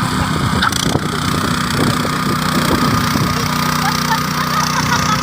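Tractor engine running steadily while cultivating the soil.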